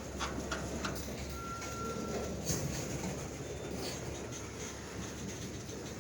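A freight train rolling past at low speed: a steady rumble with wheels clicking over the rail joints.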